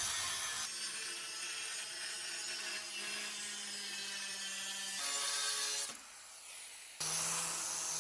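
Power tools running in a string of short clips that cut abruptly from one to the next, each with a steady motor tone over grinding or sawing noise.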